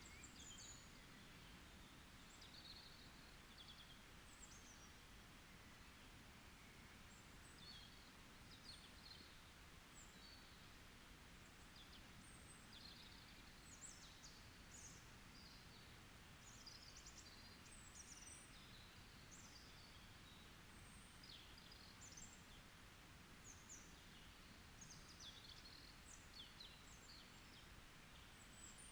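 Faint forest ambience: many short, high bird chirps and calls scattered throughout, over a steady low background hiss.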